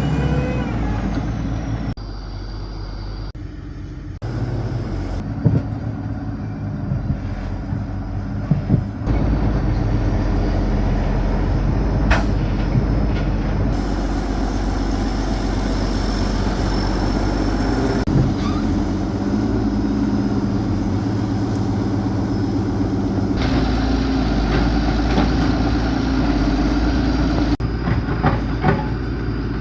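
A large engine running steadily, heard in several edited segments that cut in and out, with a few sharp knocks and clanks along the way.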